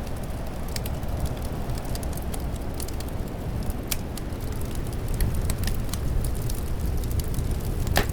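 Wood fire crackling with scattered sharp pops, one louder pop near the end, over a steady low rush of wind.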